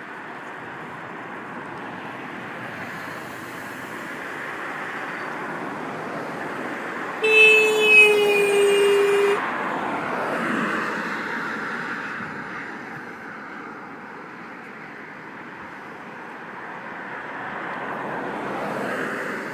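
Road traffic going by, with a vehicle horn sounding once for about two seconds, its pitch sinking slightly. The horn is the loudest thing here.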